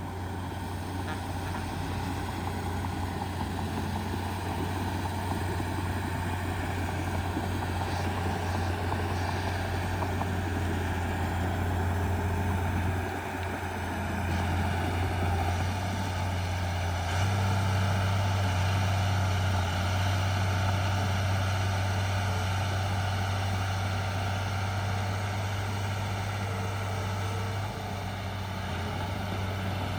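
Heavy diesel engine of earthmoving machinery running with a low, steady drone, easing off briefly about 13 seconds in and working harder from about 17 seconds.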